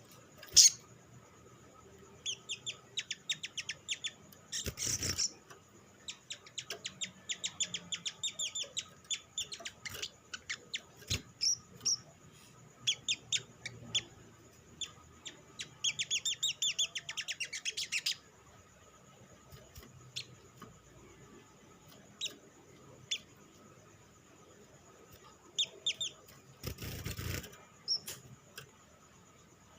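Olive-backed sunbird giving rapid trains of sharp, high chip calls, a fast chattering that comes in runs through the first half and turns sparse later. Two short rustling bursts cut in, about five seconds in and near the end.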